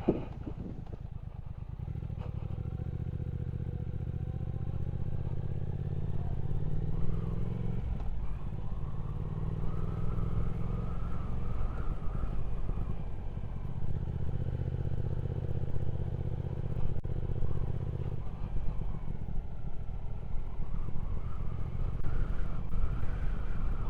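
Triumph Speed Twin 1200's parallel-twin engine running on the road. Its note climbs in pitch twice with drops in between, as when pulling through the gears, then holds steady and eases off near the end.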